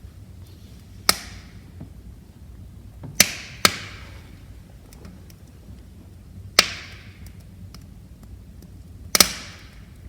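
Wood fire crackling: sharp pops about 1, 3, 3.5, 6.5 and 9 seconds in, with smaller ticks between them over the low, steady rush of the flames.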